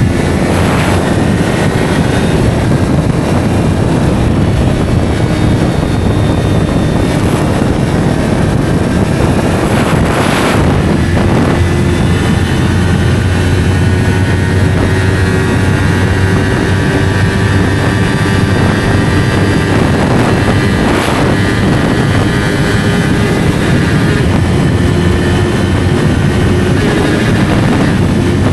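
Yamaha R3's parallel-twin engine running through an SC Project slip-on exhaust while riding at a fairly steady pitch, with wind noise on the microphone. There are brief rushes of noise about ten seconds in and again about twenty seconds in.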